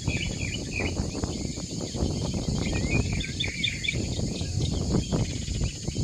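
Birds chirping in short repeated calls over a steady low rumble with crackling noise.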